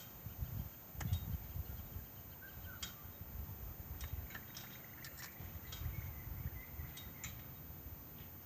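Uneven low rumbling with scattered sharp clicks, and a few faint high chirps and a thin whistle-like tone in the second half.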